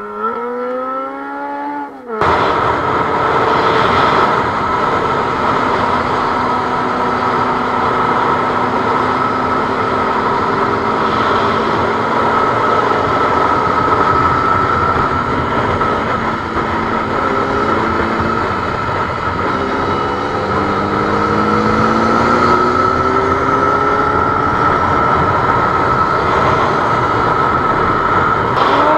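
Superbike engine revving up hard, then a steady rushing wind noise with the engine running beneath it, its pitch dropping and then climbing again as it accelerates.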